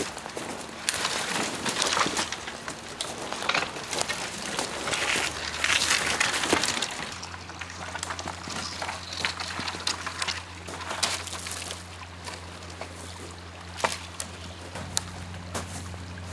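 Dry branches and brush snapping and crackling as firewood is gathered: a run of sharp cracks and rustles for about the first seven seconds, then fewer, quieter cracks over a low steady hum.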